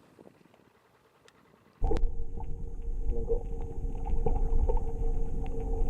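A motor running steadily with a deep rumble, cutting in suddenly about two seconds in after near quiet.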